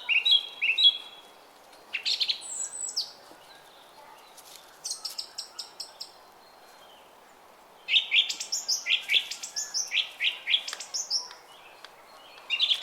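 A songbird singing short phrases of rapid, high chirping notes, a phrase every couple of seconds, the longest about three and a half seconds. Under it, the faint steady murmur of a brook.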